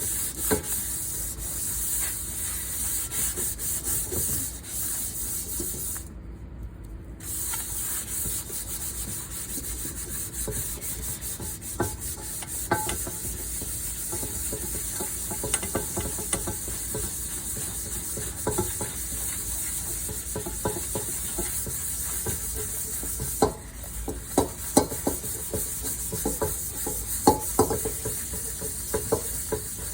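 Hand-scrubbing cookware in a wash-up: steady rubbing and scraping of a scrubber against a pan, pausing briefly about six seconds in. Clinks and knocks of dishes come through, more often over the last few seconds.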